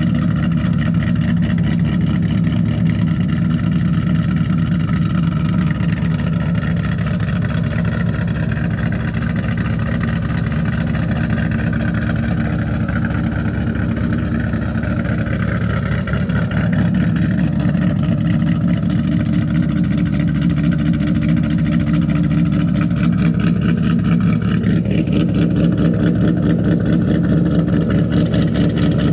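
2008 Mustang Bullitt's 4.6-litre V8, fitted with Ford Racing cams, Kooks long-tube headers, X-pipe and Magnaflow mufflers, idling with a lumpy cam chop while still warming up after a cold start. It gets slightly louder about halfway through.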